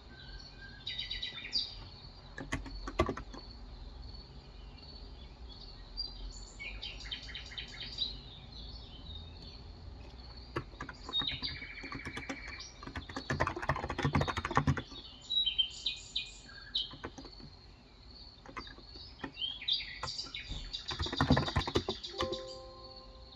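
Birds chirping in short phrases, with typing on a Cox Endeavor electrocapacitive (Topre-style) 35g tenkeyless keyboard in two bursts, about halfway through and near the end. A steady high tone runs underneath.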